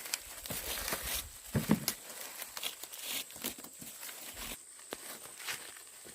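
Dry corn leaves and husks rustling and crackling, with irregular sharp snaps and tearing sounds.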